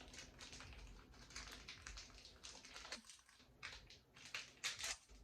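Faint, irregular crinkling and clicking of a plum candy's plastic wrapper being handled and opened.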